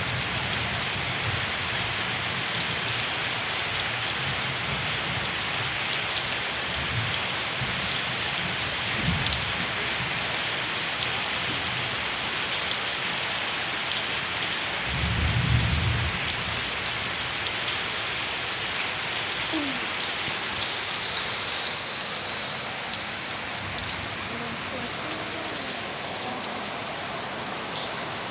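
Steady rain falling and pattering on surfaces, with a brief low rumble about halfway through.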